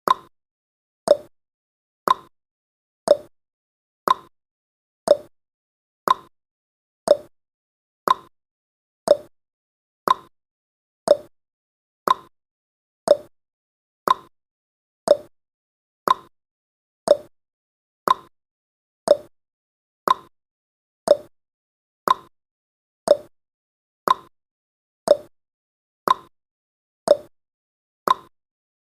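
Clock-style tick-tock sound effect of a countdown timer, one short tick every second, alternating between a higher and a lower tick.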